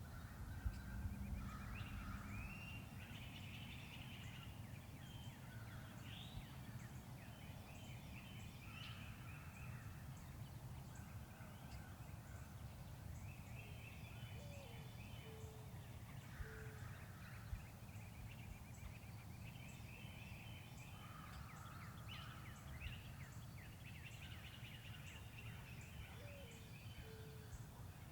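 Songbirds singing in the woods with overlapping chirps and trills, over a low background rumble. Twice, around the middle and near the end, a short run of lower-pitched call notes comes in.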